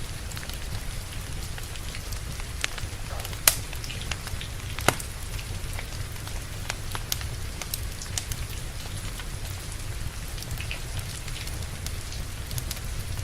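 Steady rain with a wood fire crackling over it: scattered sharp crackles, with two louder pops about three and a half and five seconds in.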